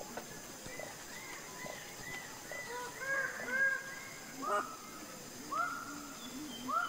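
Bird-of-paradise calls during a courtship display: a quick run of short rising-and-falling notes, then louder, slower calls about a second apart near the end.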